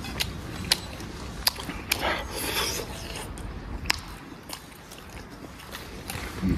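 A person eating close to the microphone: chewing on cooked meat, with scattered sharp mouth clicks and smacks and a short rustling stretch about two seconds in.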